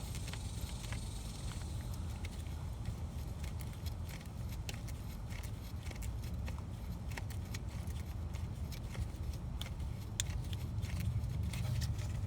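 Scattered small metallic clicks and taps of hand tools and bolts being worked on a car's axle mounting, over a steady low rumble.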